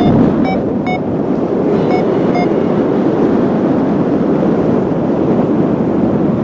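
Strong wind buffeting the microphone during a paragliding flight. A flight variometer beeps quickly for the first couple of seconds, about two beeps a second, the beeping that signals rising air.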